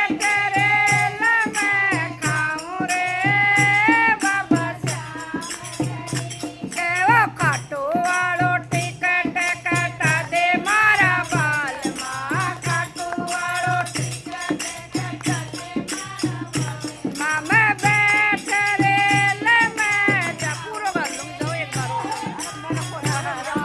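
Hindi devotional bhajan: a melodic voice sings over a steady drum beat with rattling, clicking hand percussion.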